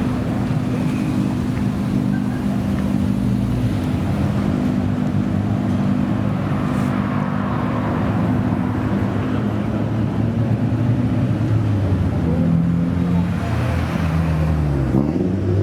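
Modified Japanese car engine running steadily at low revs, an even low drone whose pitch shifts a little near the end.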